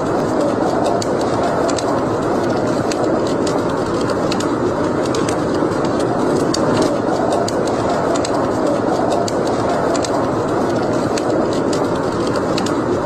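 Wood fire burning in a fireplace: irregular sharp crackles and pops over a steady rushing noise.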